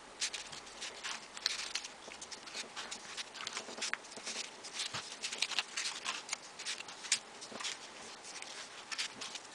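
Folded paper origami modules being handled and slotted into place, an irregular run of light paper rustles and small taps.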